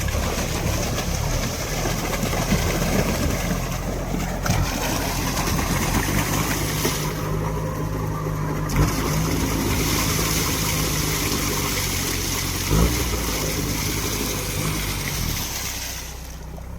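All-terrain vehicle's engine running steadily under a heavy hiss, with no change of pace.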